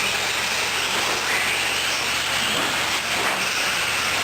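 Electric 1/10-scale four-wheel-drive short course RC trucks racing, their motors whining up and down in pitch over a steady noise from the pack on the track.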